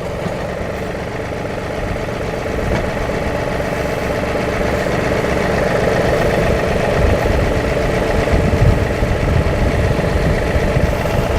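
John Deere 2038R compact tractor's three-cylinder diesel engine running steadily, growing gradually louder.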